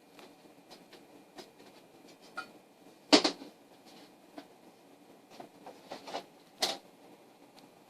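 Scattered light taps and clicks of a metal square and pencil being handled on a sheet of aluminum while it is marked out, with a sharp knock about three seconds in and another shortly before the end.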